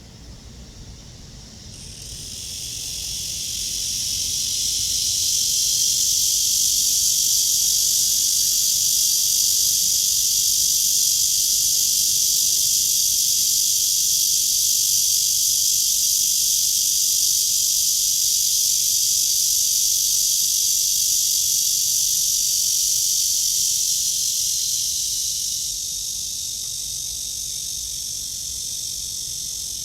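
A cicada singing one continuous, even buzz. It swells up over the first few seconds, holds steady and loud, then eases off slightly near the end.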